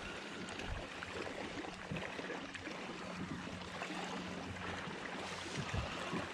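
Water lapping and trickling against a fishing kayak's hull, with a faint steady low hum underneath.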